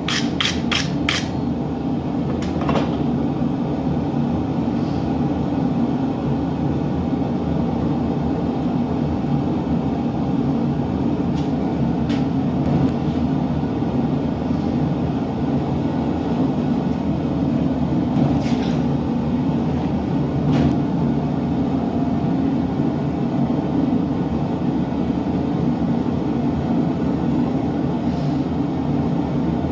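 Gas forge burner running with a steady rushing noise, after a few quick hammer blows on hot steel right at the start; a few faint clicks and taps over the top.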